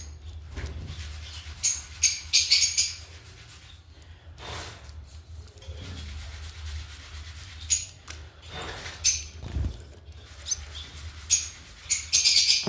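Small birds chirping in quick clusters of sharp, high calls, loudest about two seconds in and again near the end, over a steady low hum.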